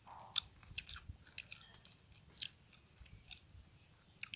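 Faint, irregular crunches of someone chewing crispy fried macaroni.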